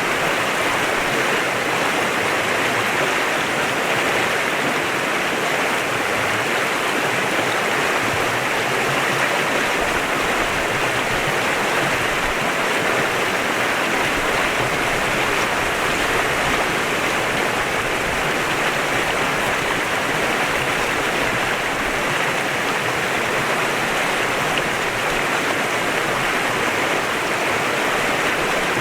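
Clear mountain stream flowing steadily over rocks, a constant rushing of water.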